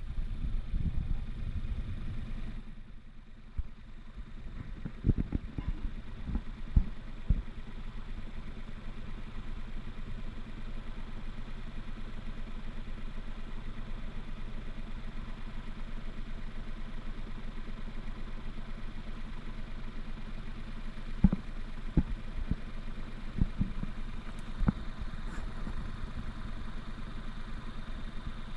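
An engine running steadily with an even hum, with a few short knocks and thumps along the way.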